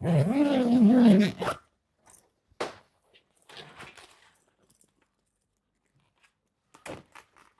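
A dog giving a long wavering whine for about a second and a half, followed by a few short zip and rustling sounds of fabric being handled.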